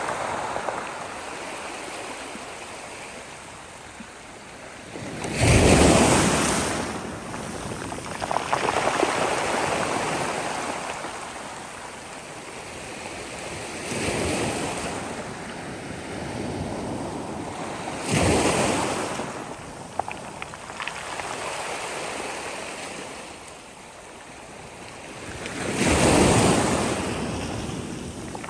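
Sea waves breaking on the shore: about four crashes come in turn, each swelling up and then washing back, the loudest about six seconds in, with a steady wash of surf between them.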